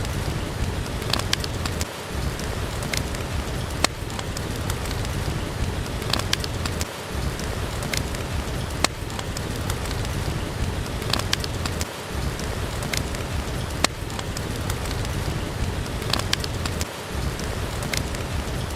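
Steady heavy rain with a low rumble, with the sharp crackling pops of a wood fire in a fireplace every couple of seconds.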